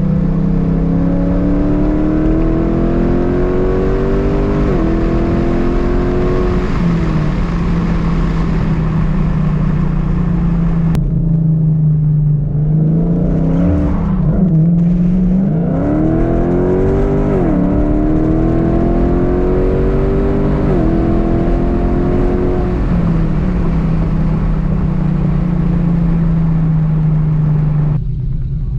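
Cammed 5.7-litre Hemi V8 of a Dodge Charger R/T, with long-tube headers and Borla mufflers, accelerating on track. The revs climb and drop back at several upshifts, fall off about halfway through, then climb through the gears again.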